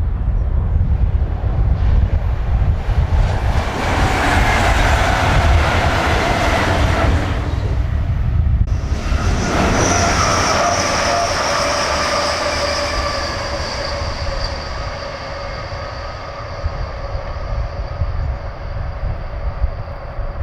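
Diesel-hauled train passing close by. Its engine whine builds as it approaches, drops in pitch as it goes past about eight or nine seconds in, then slowly fades and falls as it moves away, over a steady low rumble.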